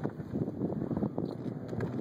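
Wind buffeting the microphone outdoors: an uneven, gusting low rumble.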